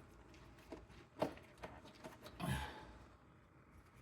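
A few light clicks and taps of a screwdriver prying at the edge of the valve cover, which stays stuck, with a man's sigh-like breath about two and a half seconds in.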